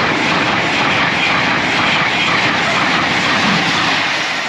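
LNER Azuma high-speed passenger train passing at speed: a loud, steady rush of wheel and air noise that eases slightly near the end.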